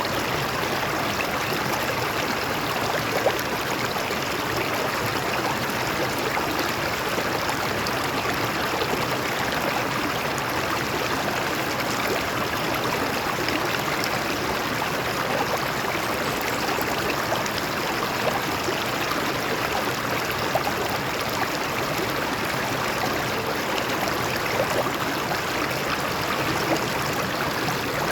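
A shallow stream running over rocks, a steady rushing with small splashes and gurgles scattered through it.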